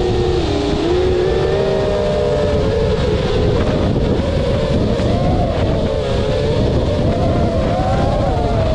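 Quadcopter drone's motors and propellers whining, the pitch wavering up and down as the motors change speed, over a steady low rushing noise.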